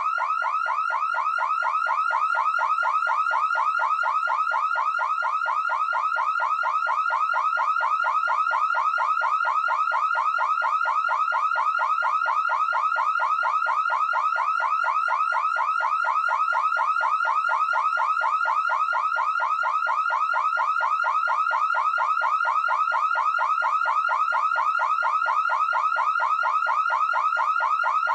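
Electronic alarm siren warbling without pause: a quick rising tone repeated several times a second.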